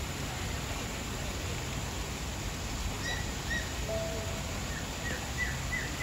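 Small bird chirping over a steady low background noise: two short chirps about halfway through, then a quick run of short falling chirps near the end.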